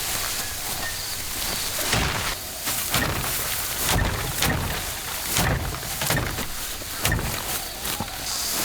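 Rice being harvested by hand: a series of dull thumps with a dry rustle of stalks, roughly one a second.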